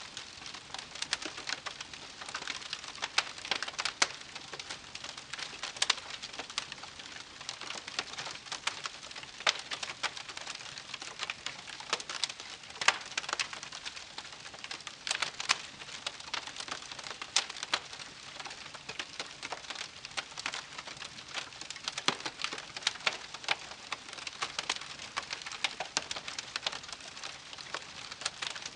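Wood campfire crackling: a steady hiss broken by dense, irregular sharp pops and snaps of burning wood.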